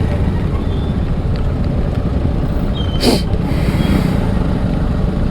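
Idling motor traffic in a jam: a steady low engine rumble, with one brief sharp hiss about three seconds in.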